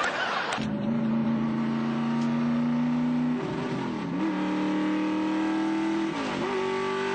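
Car engine accelerating hard, its pitch creeping up, then dipping and climbing back twice, about three and a half and six seconds in, as it shifts up through the gears.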